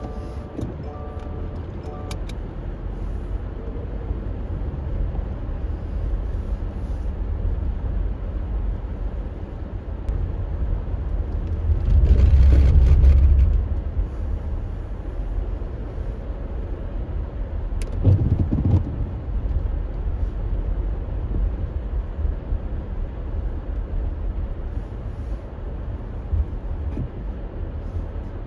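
Car driving: a steady low rumble of engine and road noise, swelling louder for a second or two about twelve seconds in, with a short knock around eighteen seconds.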